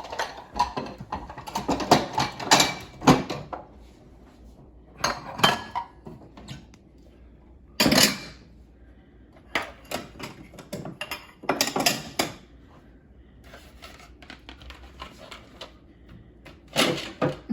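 Dishes clinking and clattering as they are handled and put away, in several separate bursts of knocks and clinks with short lulls between.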